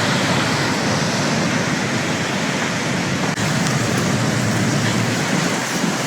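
Rough storm sea surging and breaking, a steady rushing noise.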